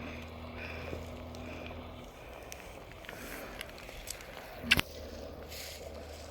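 Footsteps on wet ground over a steady low hum, with a single sharp click a little under five seconds in.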